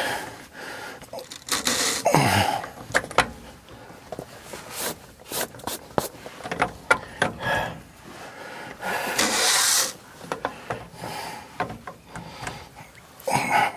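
Scattered clicks, taps and scraping of hand tools and handling on the fuel-water separator filter housing under a diesel pickup, with a short hissing rush about nine seconds in.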